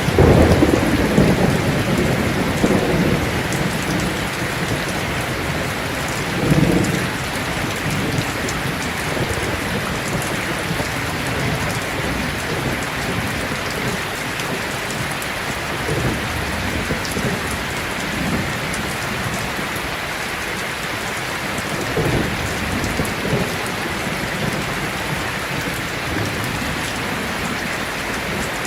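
Heavy rain falling steadily, with low thunder rumbling in the opening seconds and again several times later.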